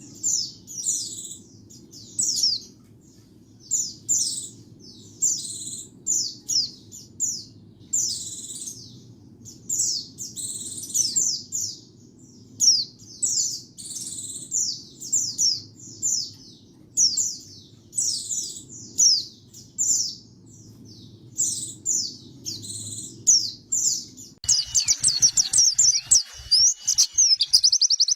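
White-eye (pleci) singing: short, high, thin phrases of falling chirps, roughly one a second. About 24 seconds in, the recording switches abruptly to a faster, denser twittering run.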